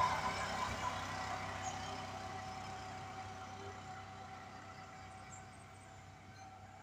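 A motor vehicle's engine moving away, its steady hum fading evenly until it is faint.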